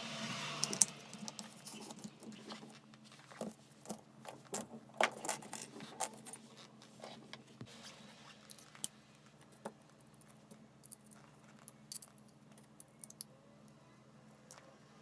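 Irregular light clicks and clinks of small hard parts being handled, with a few sharper taps, the loudest near the start and about five seconds in.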